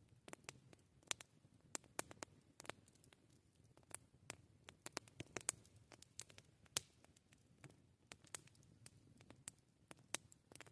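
Wood campfire crackling: irregular sharp pops and snaps, several a second, over a faint low rumble of the burning fire. The loudest snap comes a little past the middle.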